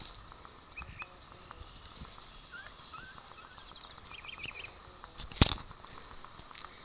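Faint bird chirps and short trills over light outdoor background noise, with a few soft rustles. One sharp knock about five and a half seconds in is the loudest sound.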